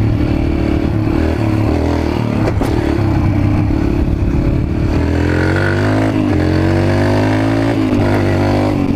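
Dirt bike engine running while ridden, the revs changing with the throttle. About halfway through the pitch climbs, dips briefly, then climbs again.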